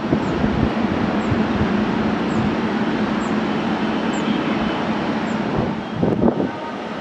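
Jet engine noise from a Saudia Airbus A330, a loud steady rush with a low hum, mixed with wind buffeting the microphone; it swells briefly about six seconds in, then eases a little.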